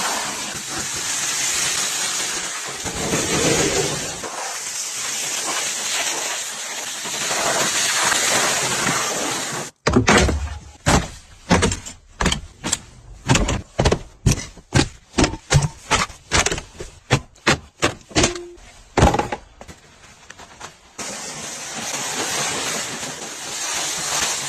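High-pressure water spray hissing, as from a car-wash spray wand. About ten seconds in it cuts off suddenly and gives way to a run of sharp knocks, about two a second, for some eleven seconds, and then the spray hiss comes back near the end.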